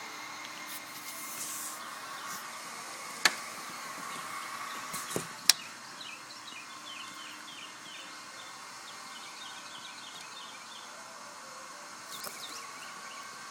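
A small bird chirping in a quick run of short high notes, about four a second, over a steady outdoor hiss. Two sharp clicks come just before the chirping.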